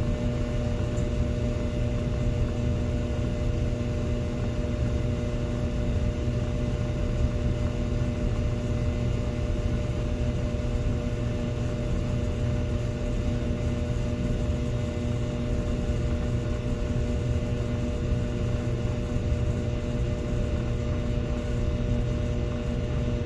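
Laundry dryer running: a steady low rumble with a constant hum of a few tones over it, unchanging throughout.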